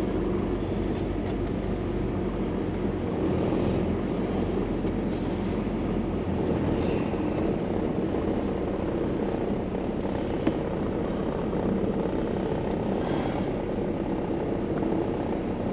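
Heavy truck engine running steadily at idle with an even low rumble, heard from inside the cab.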